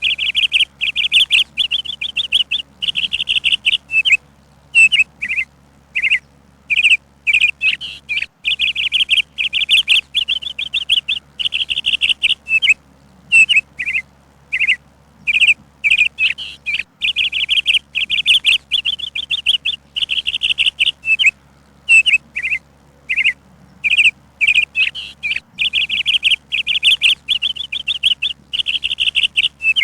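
Songbird chirping: trilled phrases about a second long alternate with short single chirps, with brief pauses between.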